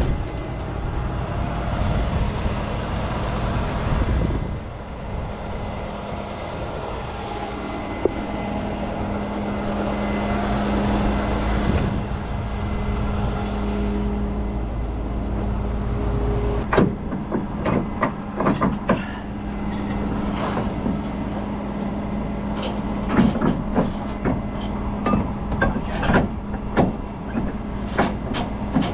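A heavy truck engine running steadily. In the second half, a string of sharp metallic knocks and clanks comes over it.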